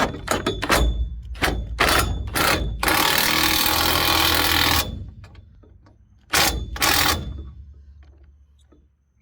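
Snap-on impact wrench hammering a large crane mounting bolt: a run of sharp knocks and clicks, then a steady burst of about two seconds, then two short bursts near the end.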